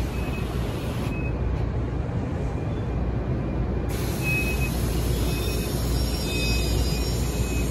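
NJ Transit Arrow III electric multiple-unit train rolling past, a steady low rumble of wheels on rail. About four seconds in a brighter hiss joins, with faint high-pitched squeals.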